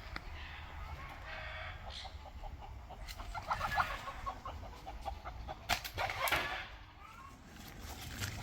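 Rooster clucking, with a quick run of clucks from about three to five seconds in and a couple of sharp clicks shortly after.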